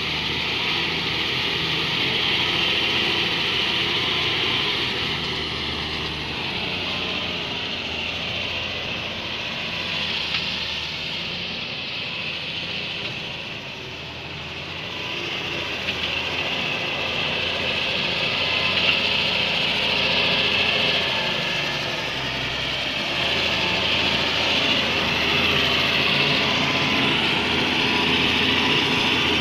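Hitachi EX-200 hydraulic excavator's diesel engine running, its sound swelling and easing as it works. It drops lowest about halfway through, then builds back up.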